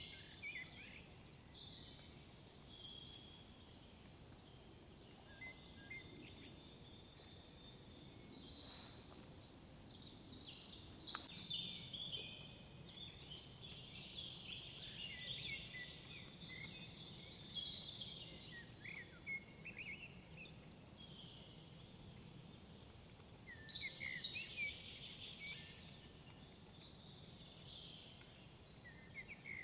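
Several songbirds singing in a forest: overlapping whistled phrases, chirps and high trills coming and going every few seconds, busiest twice, over a faint low background rumble.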